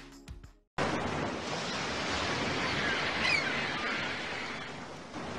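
Music ending, then steady sea waves and wind noise.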